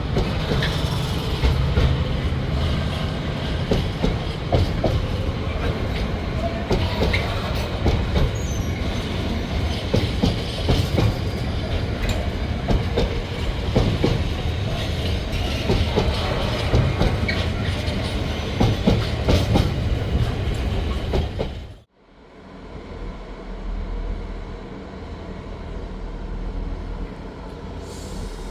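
A train rolling past close by, its wheels clicking rhythmically over rail joints with a low rumble and occasional wheel squeal. About 22 seconds in the sound cuts off abruptly and a quieter, steady diesel engine rumble begins.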